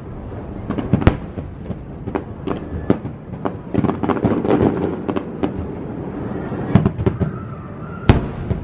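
Fireworks display: aerial shells bursting with sharp booms, the two loudest about a second in and near the end, among many smaller pops and crackles that crowd together around the middle.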